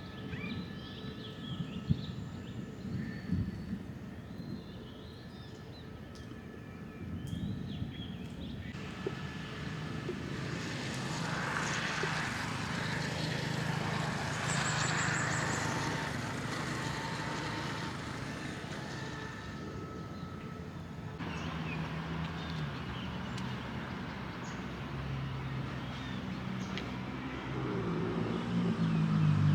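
Diesel train moving at the station: a low rumble rises into a swell of wheel and rail noise about ten seconds in, with a brief high squeal near the middle, then a steady low engine drone grows louder near the end. Birds chirp in the first few seconds.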